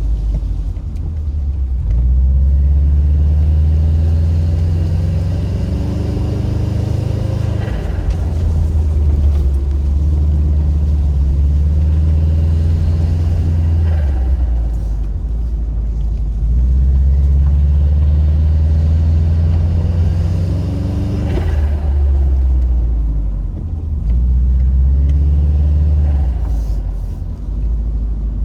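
Subaru Impreza WRX's turbocharged flat-four engine pulling under load, its revs climbing in long pulls and dropping sharply three times, over a steady low rumble. Each drop, as the throttle closes, carries a brief rasp of turbo flutter.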